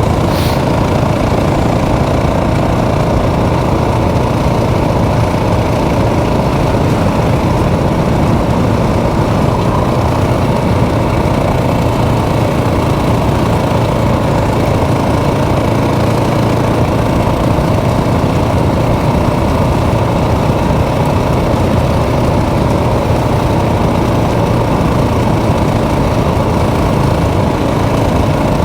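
Motorcycle engine running steadily while riding, under a constant rush of noise, with no change in speed or revs.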